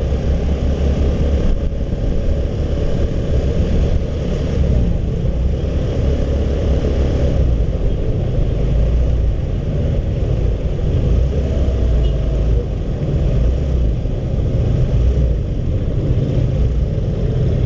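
Steady low rumble of riding a Honda CB150R motorcycle in traffic: engine and road noise mixed with wind on the microphone.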